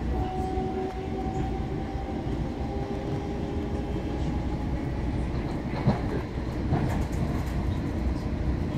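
Ride noise inside a moving Long Island Rail Road passenger car: a steady rumble of wheels on track, with a thin whine that fades out in the first half. A little past the middle, wheels pass over the rail joints and give two sharp knocks a little under a second apart.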